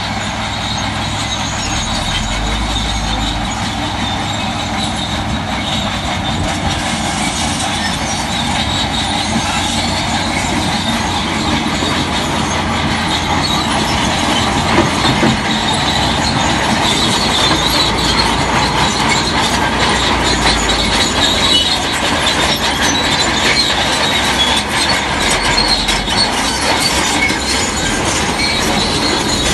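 Crawler bulldozer working, its steel tracks clanking and squealing over the engine noise, which grows a little louder about halfway through.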